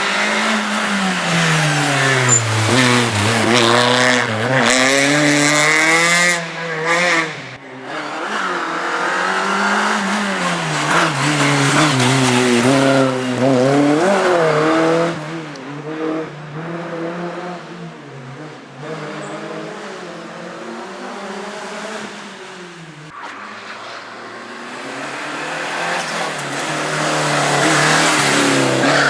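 Slalom race car engine revving up and dropping back again and again as it accelerates and brakes through chicanes. It is quieter for a stretch in the second half and grows louder again near the end.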